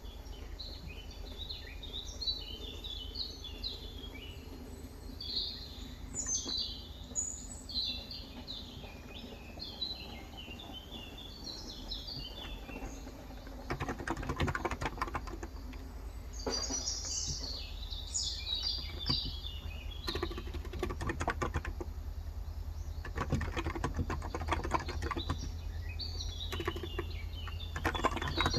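Small birds chirping and twittering in quick high runs of notes over a steady low hum. From about halfway, bursts of typing on a Cox Endeavor 35 g electro-capacitive keyboard come in and alternate with more chirping.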